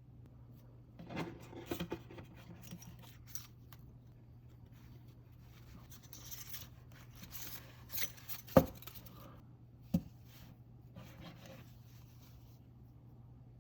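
Intermittent light scraping and rubbing of objects being handled, with a sharp knock about eight and a half seconds in and a smaller one at ten.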